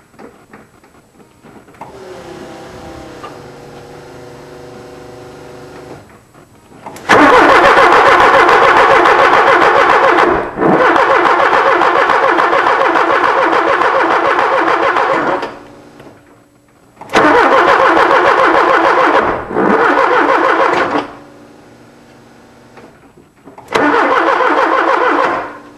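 1979 Porsche 924's 2.0-litre four-cylinder engine being cranked by the starter three times, for about eight, four and two seconds, without starting: a no-start, which the owner suspects is weak spark or not enough power. A fainter whine runs for a few seconds before the first crank.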